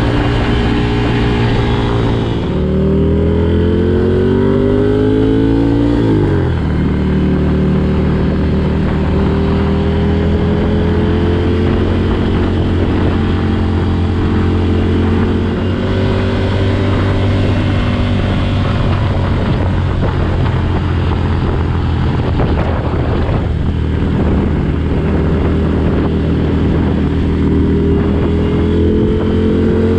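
Ducati Desert Sled's air-cooled 803 cc L-twin running through a Competition Werkes aftermarket exhaust. The revs climb for a few seconds and drop sharply about six seconds in, like an upshift. The engine then pulls steadily, its pitch rising slowly.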